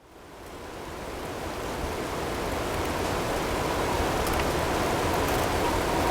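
Blizzard ambience of wind and hail as a steady, even rushing noise, fading back in over about the first two seconds, with a few faint ticks. A faint steady tone sits underneath.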